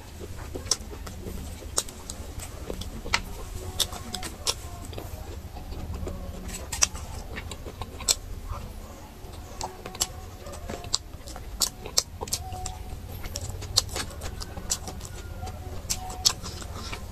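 Close-miked eating: wet chewing and irregular smacking clicks of the mouth, several a second, over a steady low hum.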